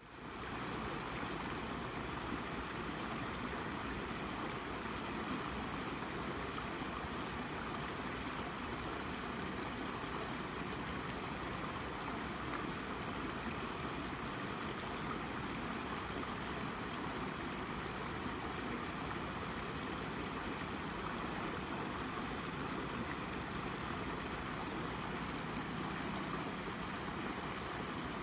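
Babbling brook: shallow water running and burbling over a rock in a steady, unbroken rush.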